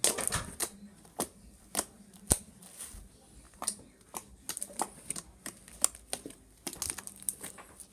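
Slime being poked and squeezed by hand, making irregular sharp sticky clicks and pops, a few a second.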